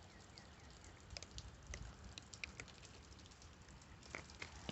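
Faint, irregular ticking and pattering of melting ice dripping and dropping from ice-coated branches.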